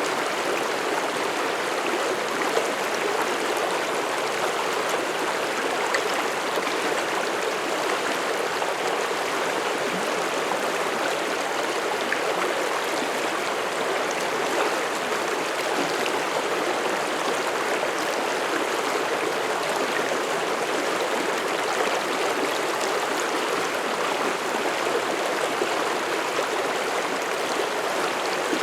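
Mountain stream flowing over rocks, a steady rushing and burbling of water that does not change.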